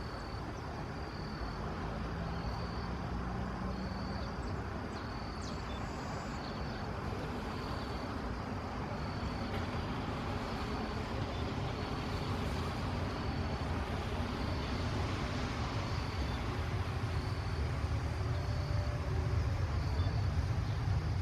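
Distant jet airliner rumble from a Boeing 737-800's CFM56 engines, slowly growing louder, over a steady hiss of rain. A faint short high chirp repeats about once a second.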